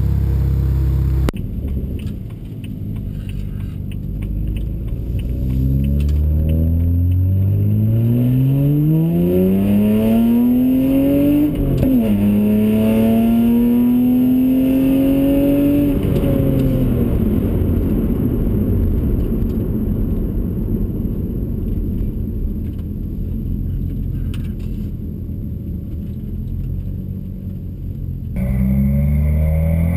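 BMW 135i's turbocharged straight-six, with a prototype aftermarket exhaust and catless downpipes, accelerating hard. It revs up, shifts up once with a sharp drop in pitch, revs again, then falls away as the car passes and the note fades. Near the end another run starts with the engine note rising again.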